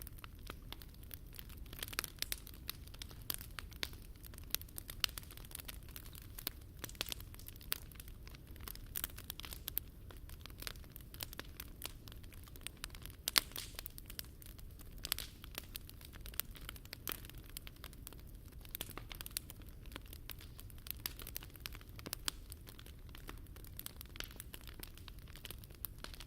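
Open wood bonfire burning, with a steady stream of irregular sharp crackles and pops over a low rumble of the flames; one louder pop about thirteen seconds in.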